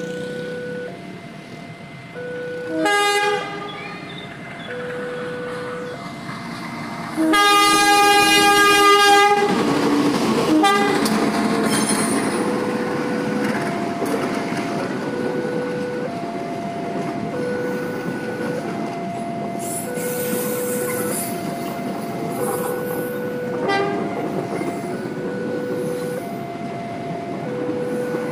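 A level-crossing warning alarm repeats a two-tone electronic pattern throughout. An approaching passenger train's locomotive sounds its horn briefly about three seconds in, then gives a long, loud blast. From about ten seconds in, the train's coaches rumble past over the rails under the continuing alarm.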